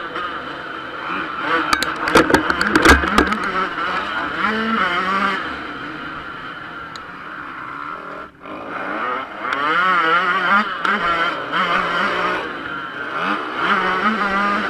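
Yamaha YZ125 two-stroke motocross engine revving up and down again and again under hard throttle, with a cluster of sharp knocks about two to three seconds in and a brief drop in engine sound a little past the middle.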